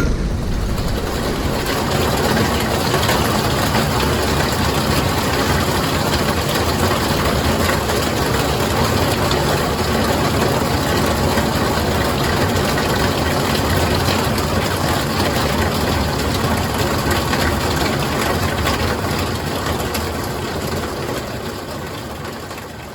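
Steady rush of running water from a mountain stream or rain, fading out near the end.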